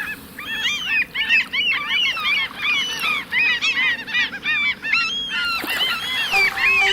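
A flock of gulls calling, many short arched cries overlapping one another without pause.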